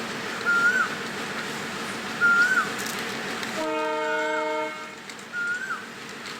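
Train horn sounding one steady chord for about a second, just past the middle, over the train's running noise. A short rising-then-falling chirp repeats about every two seconds throughout.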